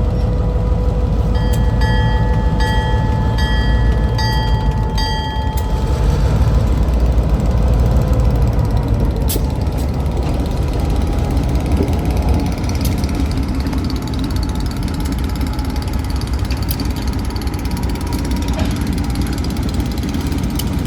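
Wheeling & Lake Erie train 930 rumbling by, a steady heavy low roar of locomotive and rail cars. For the first few seconds a ringing tone of several pitches repeats about six times, a bell-like signal sounding over the train.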